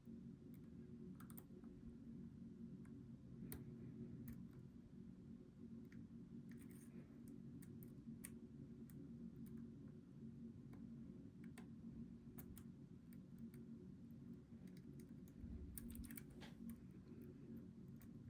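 Faint, irregular clicks of a steel lock pick working the pins inside a Goal V18 pin-tumbler lock, over a steady low hum.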